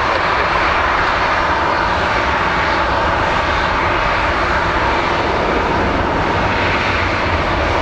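Airliner engines running with a loud, steady, even rush.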